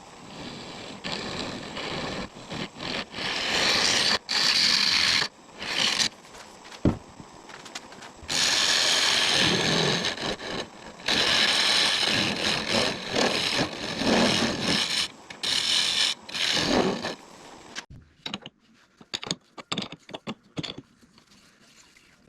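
Turning tool cutting a spinning mesquite bowl blank on a wood lathe, in loud noisy stretches that start and stop repeatedly as the tool is pressed in and lifted off. The cutting stops a few seconds before the end, leaving scattered light clicks and taps.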